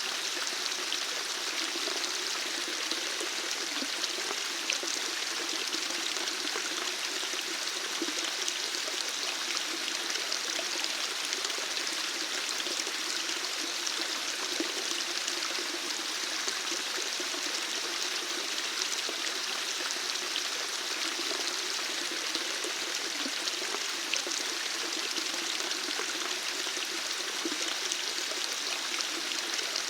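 Steady flowing water, like a stream running and splashing, with an even rush and small splashes.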